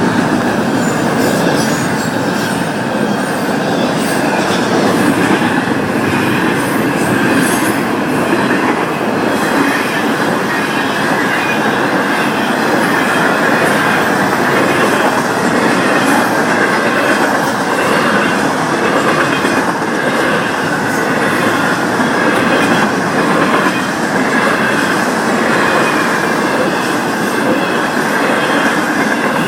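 Florida East Coast Railway freight train's cars rolling past, steel wheels running on the rails in a loud, steady, unbroken noise with a constant high ringing band.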